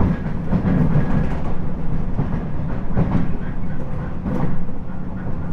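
JR 719 series electric train running at speed, heard from inside the car: a steady low rumble of wheels on rail with a few sharp knocks from the track, about three seconds and four seconds in. This is the unit known for its abnormal running noise.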